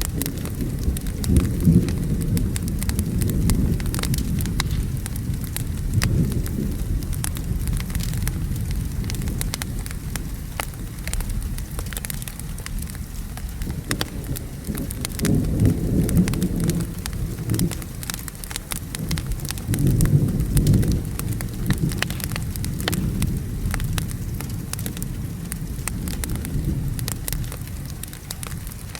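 Steady rain with several low rolls of thunder, the strongest about a second in, about fifteen seconds in and about twenty seconds in, over the small sharp crackles of a wood fire burning.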